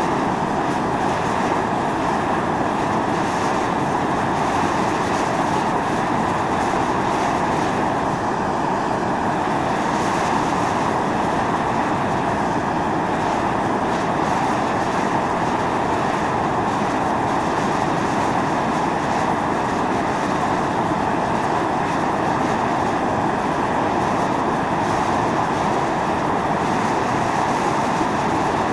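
Volcanic fumarole venting steam: a steady, loud rushing hiss with no breaks.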